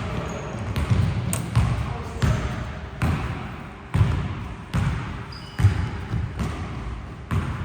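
Basketball being dribbled on a court: a string of sharp bounces, somewhat uneven, roughly one every second or a little faster.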